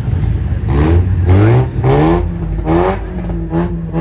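A car engine revved in quick blips over its idle, about four strong revs, each a short rise in pitch, followed by two smaller blips near the end.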